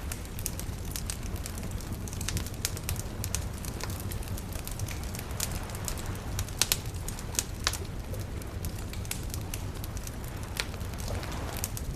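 Campfire crackling, with frequent sharp pops and snaps over a steady low rumble; a soft wave wash swells in near the end.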